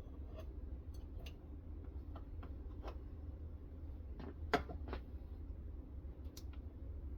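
Scattered light clicks and taps of metal parts being handled on a guided knife-sharpening system, with one sharper click about four and a half seconds in, over a steady low hum.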